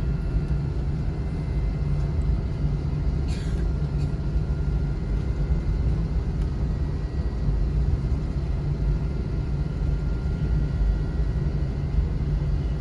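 Airliner engine and airframe rumble heard inside the passenger cabin: a steady low drone with faint high tones, and one faint click about three and a half seconds in.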